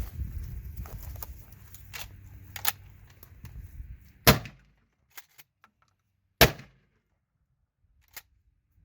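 Two loud, sharp gunshots about two seconds apart, each cutting off abruptly. Before them come low rustling and scattered small clicks of movement, and a faint pop near the end.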